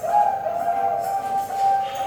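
Four-month-old zebra dove (perkutut) cooing: a long held whistly note with a fainter lower note beside it, coming after a quick run of repeated notes.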